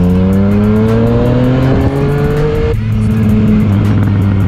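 Yamaha MT-09's three-cylinder engine accelerating hard, its pitch rising steadily through a gear; near three seconds in an upshift drops the pitch sharply and the engine pulls on at lower revs.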